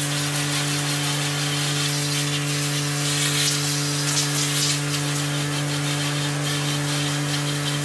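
A machine running steadily: a constant low hum under a wide hiss, with no change in pitch or level.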